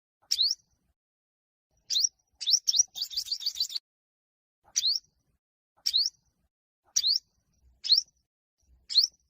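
Olive-backed sunbird (yellow-bellied sunbird) calling: sharp, high, upward-sweeping chips about once a second, broken once by a quick trill of about six notes a few seconds in.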